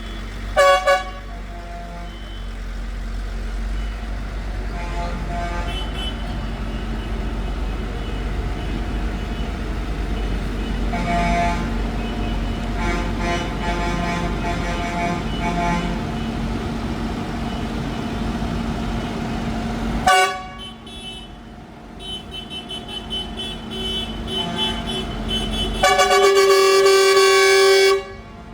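Tractor engines running as the tractors pass, with horns tooting: a short loud toot just after the start, more toots in the middle, and one long loud horn blast near the end.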